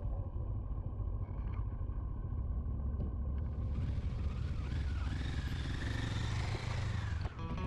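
Vehicle engine running with a steady low road rumble while driving, a higher whine coming in about halfway through and rising and falling.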